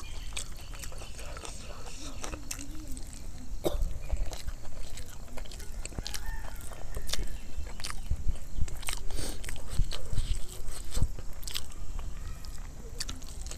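Close-up chewing and wet mouth smacking of a person eating egg curry and rice, with irregular clicks and smacks.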